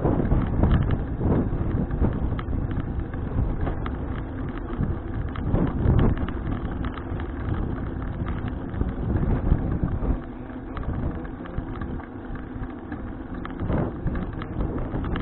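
Wind buffeting the microphone of a bicycle-mounted action camera while riding, with frequent small knocks and rattles from the folding bike over the road.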